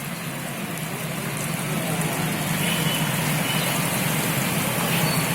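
Steady rain falling, an even hiss with a low steady hum underneath.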